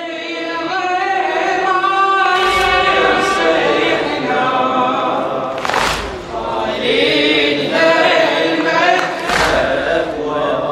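A choir of voices chanting a sustained melody in unison for a Shia latmiya elegy, with a deep thump three times about every three and a half seconds.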